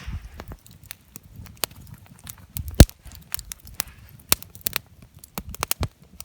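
Open campfire crackling, with irregular sharp pops and one loud pop a little under three seconds in.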